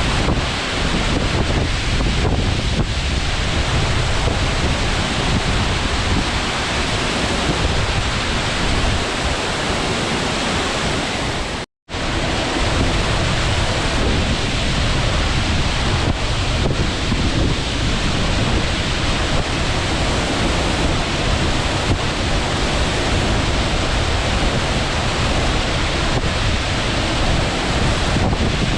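Abe Ōtaki, a straight-drop waterfall of about 45 m, heard close to its base as a loud, steady rush of falling water with a deep rumble beneath. The sound cuts out for an instant about twelve seconds in.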